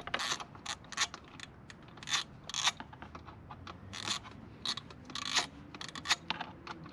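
Hand tool working the bolts of a motorcycle chain guard loose: irregular short metallic clicks and scrapes.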